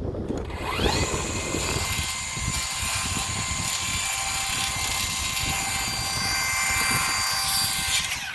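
A motor-driven machine spinning up with a rising whine, then running with a steady high whine, over a low rumble of wind on the microphone. It cuts off abruptly at the end.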